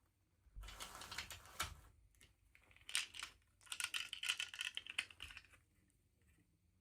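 Plastic toy packaging being handled and opened by hand: two spells of crinkling and clicking, the first about a second long and the second about three seconds long.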